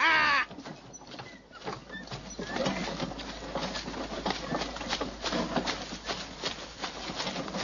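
A man's loud laughing cry falls in pitch and breaks off in the first half-second. Then birds call outdoors, with dove-like cooing, over light irregular rustling.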